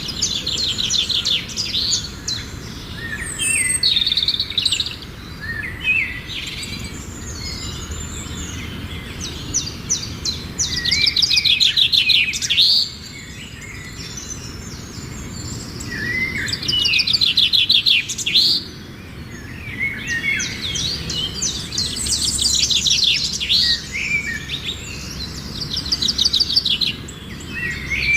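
A flock of birds chirping and calling, with rapid trilled phrases repeating every few seconds over steady low background noise.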